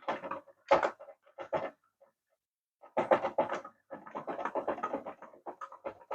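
Plastic parts of a toy RC car being handled and pried at during disassembly: a run of irregular clicks, rattles and scrapes, with a few short clusters at first and a busier stretch in the second half.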